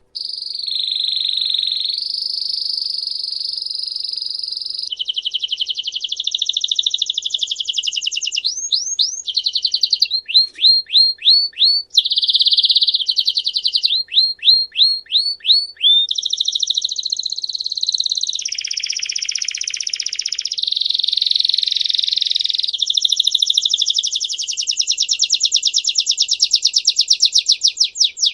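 Songbird singing a long, high-pitched song of rapid trills and rolls, each held for a few seconds before switching to another. Runs of quick repeated down-slurred notes come around the middle and again near the end.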